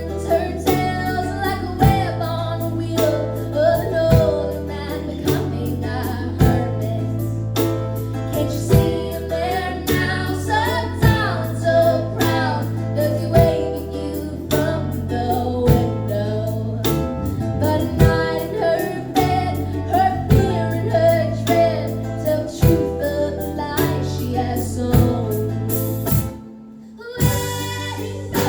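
Live band playing a song, a female voice singing lead over string instruments and a steady beat. The sound cuts out for under a second near the end.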